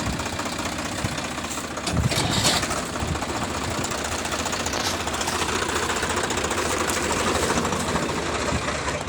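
Swaraj tractor's diesel engine running steadily, louder for a moment about two seconds in.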